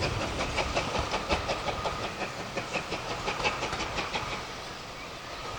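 Train wheels clicking over rail joints as the coaches pass, about five clicks a second, dying away about four and a half seconds in.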